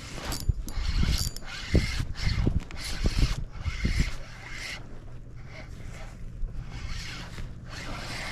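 Fishing reel being cranked in repeated bursts, with a few low knocks in the first half.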